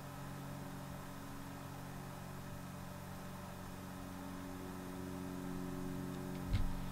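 A steady low mechanical hum, like an engine or motor running, growing slightly louder about five seconds in, with a short thump near the end.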